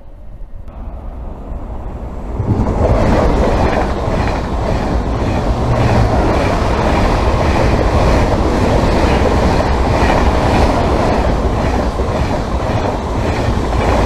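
TGV Duplex high-speed train passing, its loud, steady rolling rush building in about two seconds in, with a regular clatter of wheels over the rail joints.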